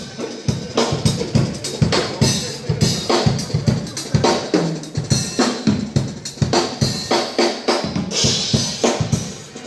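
Drum kit playing a steady groove of kick drum, snare and rimshots, with a cymbal wash near the end.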